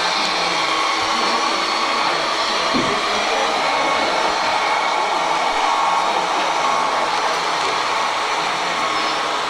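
Radio-controlled scale model trucks and excavators working, with a steady whirring of their small electric motors.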